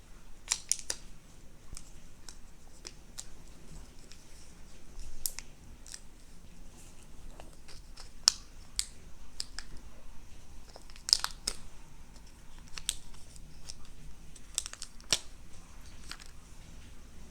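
Unboxing handling noise: irregular crinkles, rustles and sharp clicks as packaging and a USB cable are handled and unwrapped.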